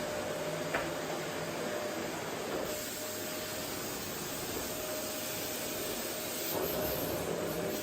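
Vacuum cleaner running steadily: an airy hiss with a faint steady whine. A small click comes about a second in, and the hiss turns brighter a few seconds in, as the nozzle moves over the floor.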